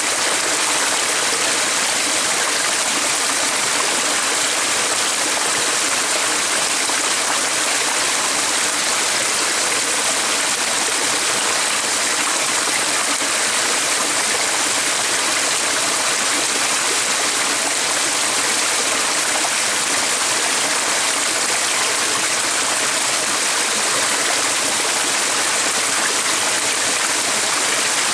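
A stream of flowing water rushing steadily, an even, unbroken hiss.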